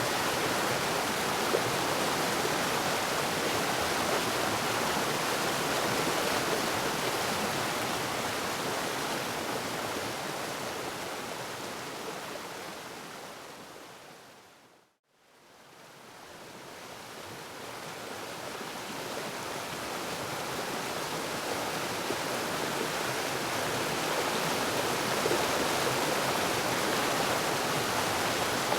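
Waterfall: a steady rush of falling water that fades out to silence about halfway through and then fades back in.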